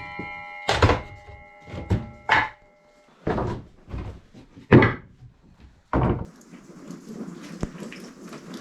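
A power saw winding down after a cut, its whine fading out over the first few seconds, while lumber being handled knocks and thunks about seven times.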